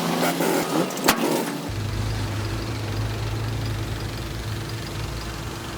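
Heavy construction machinery's diesel engine running steadily, with a sharp click about a second in. Just under two seconds in the sound changes abruptly to a lower, deeper engine hum.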